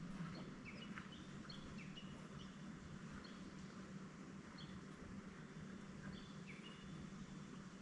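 A bird's short chirping calls, repeated every second or so, over a low steady hum.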